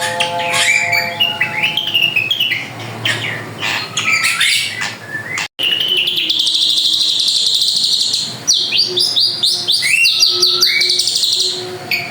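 Drongo singing busily: a fast run of varied chirps and whistled notes, with a long buzzy trill a little past halfway. The sound cuts out for an instant just before the trill.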